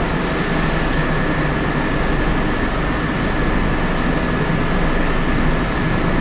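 Scania K94UB bus with its Scania DC9 nine-litre five-cylinder turbodiesel running steadily, a constant engine and road drone with a steady high whine over it.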